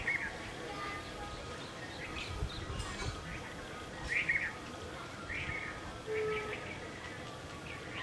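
Small birds chirping: short, bright calls repeated every second or so, the loudest cluster about four seconds in.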